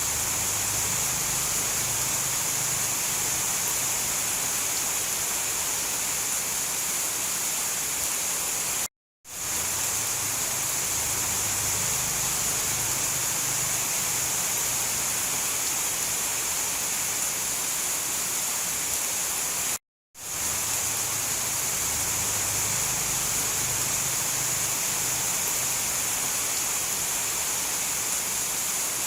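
Heavy rain falling steadily, a dense even hiss. The sound cuts out to silence for a moment twice and fades quickly back in.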